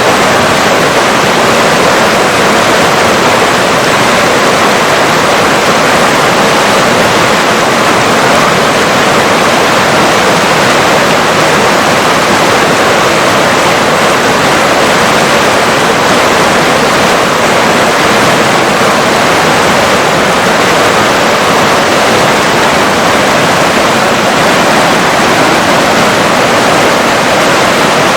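River water rushing in a loud, steady, unbroken rush.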